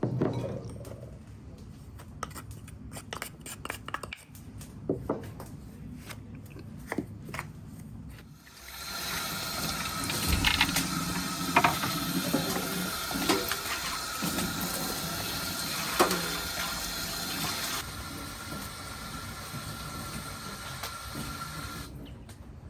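Scattered clicks and knocks of handling. About eight and a half seconds in, water starts running steadily, with a few knocks over it, and it stops near the end.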